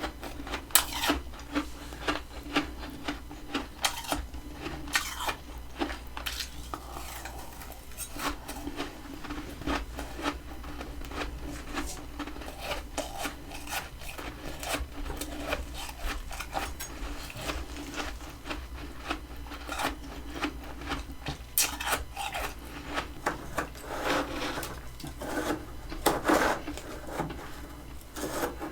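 Humidifier freezer frost crunching: many irregular crisp crackles and scrapes, with a steady low hum beneath.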